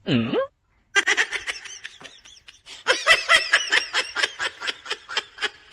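Rapid, pulsing laughter in quick bursts of several per second for about four seconds, after a short swooping sound at the very start.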